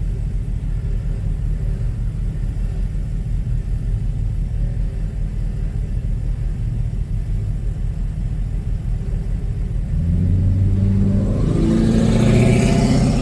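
A 1996 Mercury Grand Marquis's 4.6-litre V8 idles with a low, steady rumble through a straight-piped single exhaust that has no resonator and no rear catalytic converter. About ten seconds in it is revved, the exhaust note rising in pitch and growing louder.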